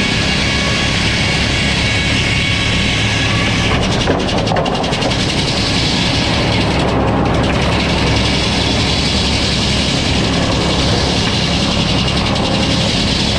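Sawmill running steadily with its saw cutting a log, a loud, even machine noise. The high end thins briefly about four and seven seconds in.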